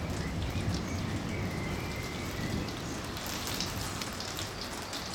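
Steady rain from a summer thunderstorm: an even hiss of falling rain with scattered drop ticks.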